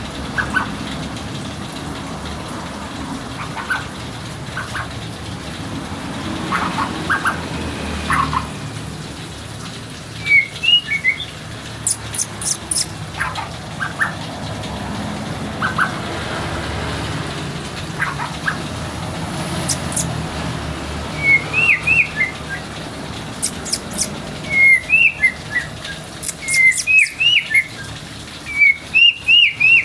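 White-rumped shama singing short whistled phrases in bursts a few seconds apart, more often and louder in the second half, over a steady low background hum.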